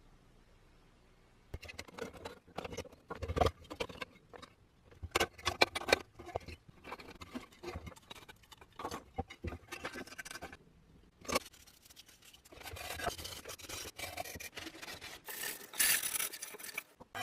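Hands working on a rusted petrol lamp: irregular knocks and clicks of metal parts, with scraping. About twelve seconds in it turns to steadier scraping, loudest near the end.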